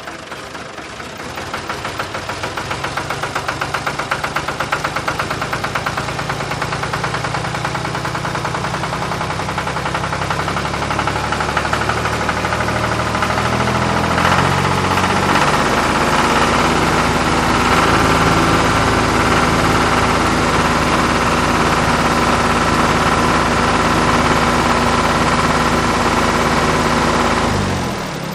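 Vehicle engine running with a steady rhythmic chugging, picking up speed about halfway through and holding there, then cutting off abruptly near the end.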